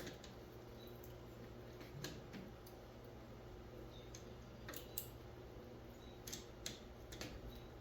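Scattered light clicks and taps, about eight in all, from hand work on the air conditioner's metal parts during teardown, over a faint steady hum.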